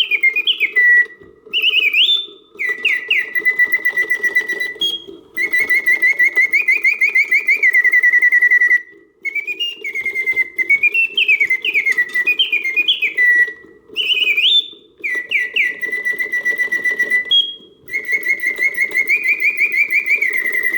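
Karl Griesbaum double singing birdcage singing on its continuous setting: the bellows-driven bird whistle sings strong, full notes, with fast trills and quick rising swoops and short breaks between phrases. A steady low hum runs underneath.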